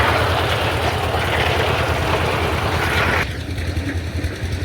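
Engine-driven processing machine running loudly: a steady low engine hum under a harsh noise. The harsh layer drops away abruptly about three seconds in, leaving the hum.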